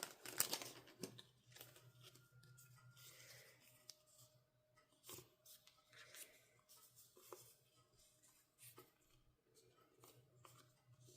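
Faint rustling and small clicks of paper and plastic album inclusions being handled and pulled open, the rustling louder in the first second.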